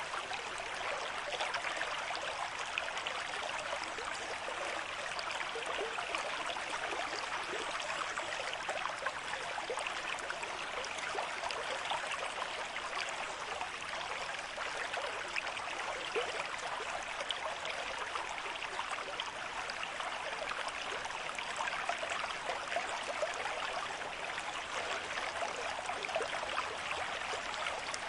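River stream flowing at a moderate rate: a steady rush of water with many small splashes and gurgles throughout.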